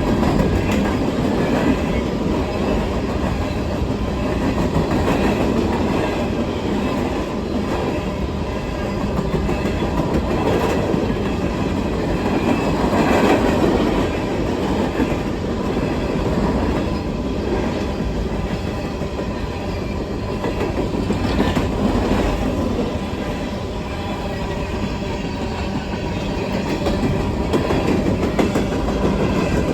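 Coal train's loaded hopper cars rolling steadily past, wheels clicking over the rail joints.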